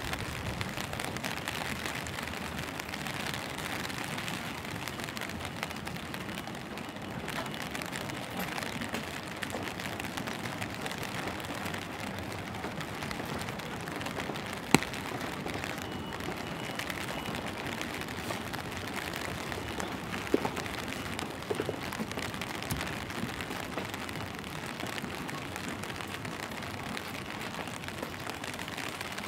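Steady rain falling on wet pavement, an even hiss throughout. One sharp click about halfway through, and a few fainter ticks a few seconds later.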